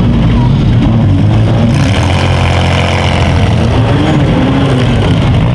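Engines of several small gut-and-go demolition derby cars revving up and down together, a dense, loud running din. A brighter hissing layer joins about two seconds in.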